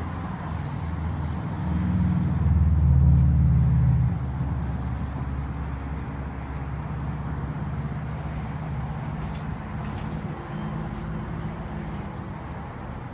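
A motor vehicle's engine running close by, swelling louder about two to four seconds in and then going on more steadily as it slowly fades.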